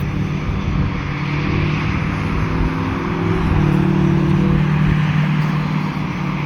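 Lockheed C-130 Hercules's four turboprop engines running up with a steady droning hum as the aircraft starts to roll, swelling a little midway.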